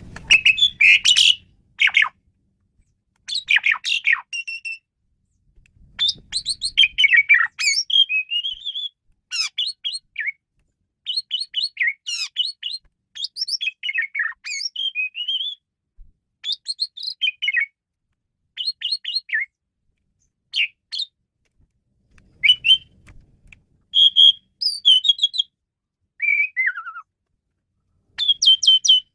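Asian pied starling (jalak suren) singing: a long run of short phrases of whistles, chatters and squeaky notes with brief gaps between them, including a falling whistle near the end.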